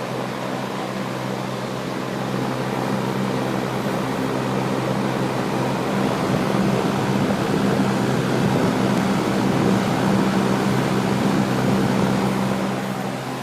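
Air-cooler fan motor running on low speed, a steady hum with the rush of air from the fan; it grows louder over several seconds and drops near the end. The motor has new bushes and a new shaft, and the owner says it now runs first class.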